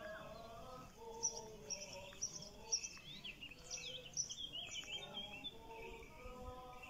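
Several songbirds chirping and twittering in quick, short overlapping calls, with faint held lower tones underneath.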